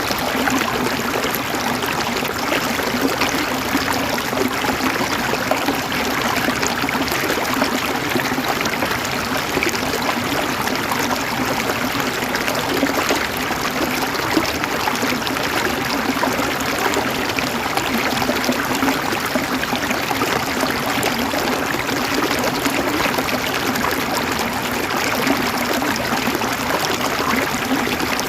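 River water flowing and gurgling over stones, a steady babbling with fine splashy detail and no change in level.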